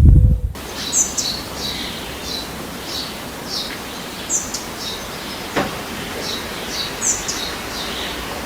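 Small birds chirping over a steady outdoor hiss: short, high chirps repeated every half-second or so, after a brief low rumble at the very start.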